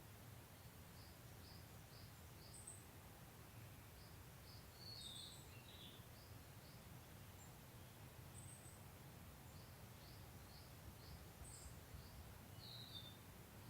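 Faint outdoor birdsong: runs of short, high chirps about three a second, with a few other scattered bird notes every couple of seconds, over a faint steady low rumble.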